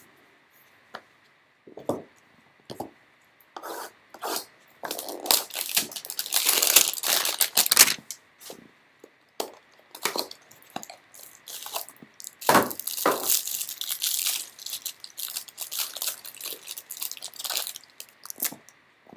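Trading card packaging being torn open and handled: crinkling wrapper and ripping cardboard, with loud stretches of tearing about a quarter of the way in and again past halfway, and scattered clicks and rustles between.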